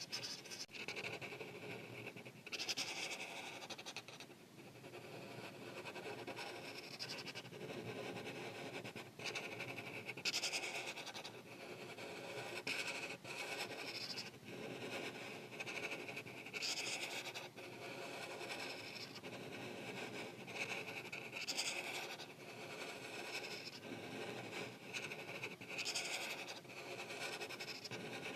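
Art marker strokes scratching across paper, a steady run of back-and-forth colouring strokes with louder, brighter passes every few seconds.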